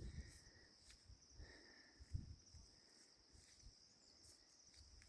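Near silence: a faint, steady, high insect chirring in the background, with a few soft low thumps.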